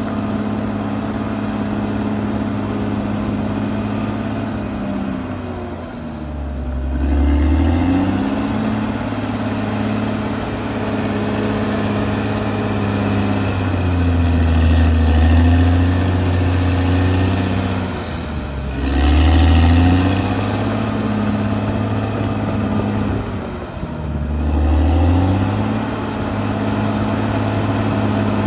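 Caterpillar D6R XL bulldozer's diesel engine working under load. Its note dips and picks back up three times as the load changes.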